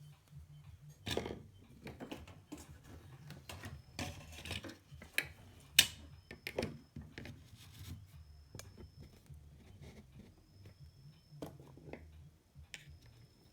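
Scattered clicks, taps and scraping of tools and small parts being handled while an amplifier is being worked on, with one sharper click about six seconds in. A faint high-pitched whine comes and goes in the second half.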